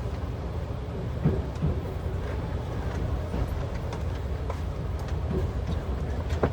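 Passenger train running, heard from inside the carriage: a steady low rumble with occasional short clunks from the wheels and running gear.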